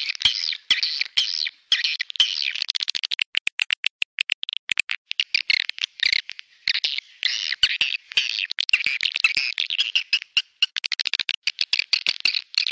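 Swiftlets twittering in a dense, continuous chorus of high chirps, mixed with rapid sharp clicks.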